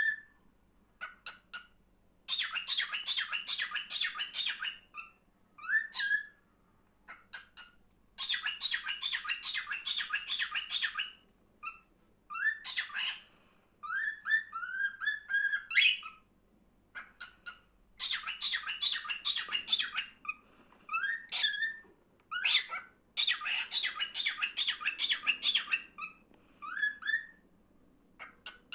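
Cockatiel singing a courtship song: bouts of fast, scratchy chattering lasting a few seconds each, broken up by short calls and rising whistled notes.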